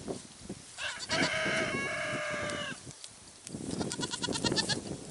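Goats bleating: one long, even-pitched bleat starting about a second in, then a shorter quavering bleat near the end, over faint rustling.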